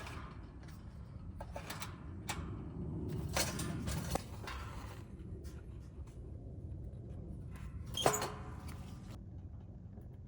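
Hands working at a small wood-burning stove: scattered knocks and rustles over a steady low rumble, with one sharp metallic clank about eight seconds in that rings briefly.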